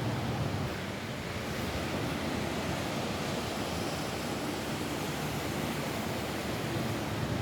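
Steady rain falling on a roof: a dense, even hiss with its weight low down.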